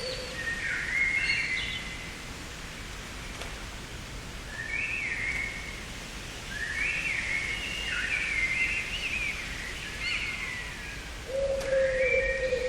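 Garden songbirds singing in short, repeated chirping phrases, with a low cooing call at the start and again near the end, over a steady low background rumble.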